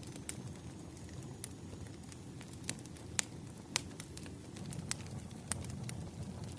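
Campfire burning with a steady low rumble and irregular sharp crackles and pops of burning wood, the loudest two about three and four seconds in.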